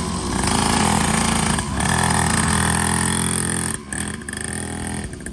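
A kid's dirt bike engine running just after a cold start, held on a little throttle so it doesn't stall. The engine note dips briefly about two seconds in and drops quieter near the end.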